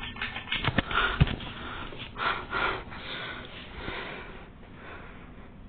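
52-inch Harbor Breeze Centreville ceiling fan running on medium speed, a steady low whir. A few sharp clicks and short puffs of noise close to the microphone come in the first three seconds.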